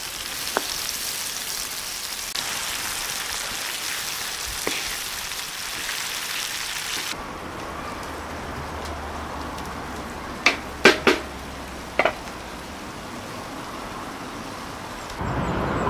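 Chopped tomatoes, onion and green pepper frying in oil in a large pan, a steady sizzle with a wooden spoon stirring through it. About seven seconds in, the sizzle drops away to a quieter, duller background, broken a few seconds later by four sharp knocks.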